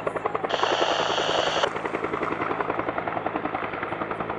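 Firefighting helicopter flying, its rotor beating in a steady rapid pulse that eases slightly toward the end. A burst of high hiss lasts about a second, starting about half a second in.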